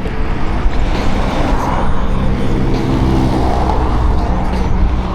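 Road traffic: cars passing close by, two swelling past about a second and a half in and again about three and a half seconds in, over a steady low rumble of wind on the microphone of a moving bicycle.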